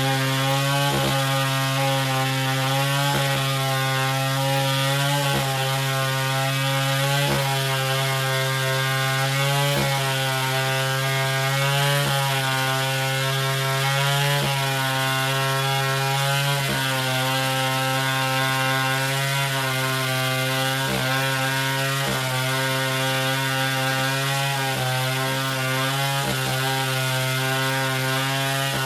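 Two-stroke chainsaw running at high speed while cutting wood. Its pitch sags briefly every couple of seconds.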